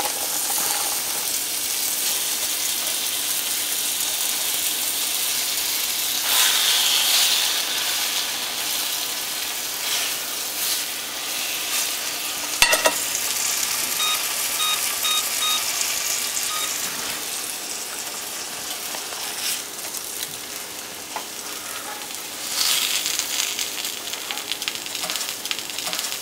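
Floured chicken pieces sizzling as they sear in hot olive oil in a skillet, a steady hiss that swells louder twice. About halfway through there is a sharp click, followed by a short run of about five electronic beeps.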